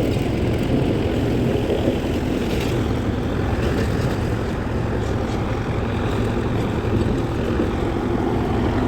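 Darjeeling Himalayan Railway toy train running, a steady low rumble with no break.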